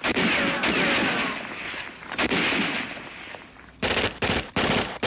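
Dramatised gunfire from a war-drama soundtrack: a sustained volley of rifle and automatic-weapon fire, then three or four quick separate shots near the end.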